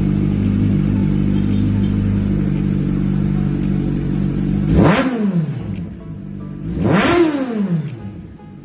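Kawasaki Ninja 1000SX inline-four idling steadily through a custom dual aftermarket muffler, then blipped twice: two quick revs about five and seven seconds in, each climbing sharply and dropping straight back.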